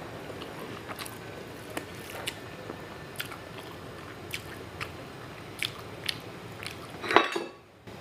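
Close-miked chewing and wet mouth clicks of a person eating rice and fish curry by hand, with soft squishing of the rice under the fingers. A louder wet sound comes about seven seconds in, followed by a brief near-silent gap.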